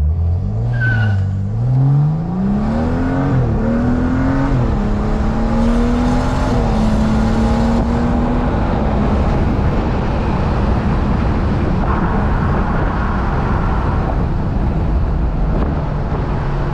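Turbocharged B58 inline-six of a tuned BMW 440i on a full-throttle pull on E30 fuel. The engine note climbs quickly, drops at an upshift about three seconds in, climbs again and shifts once more a second later. It then holds a steady pitch and, after about eight seconds, settles into steady road noise.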